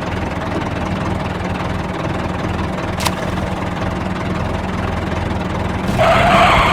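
A heavy vehicle engine idling steadily with a low, even hum, with one sharp click about three seconds in and a louder rushing burst near the end.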